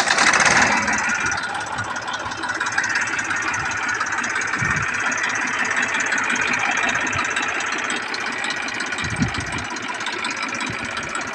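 TAFE 45 tractor's diesel engine running steadily, with a dense, rattling clatter.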